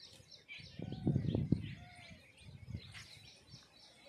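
Small birds chirping rapidly and repeatedly in a field. A brief low rumbling burst with a few knocks comes about a second in.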